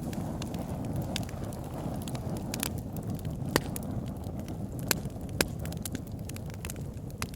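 Campfire burning with a steady low rumble, broken by irregular sharp crackles and pops of the burning wood; three louder pops come in the middle of the stretch.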